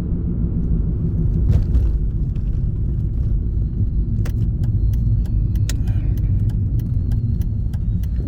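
Steady low road rumble of a car heard from inside the cabin while driving. A scattering of light clicks comes in about halfway through.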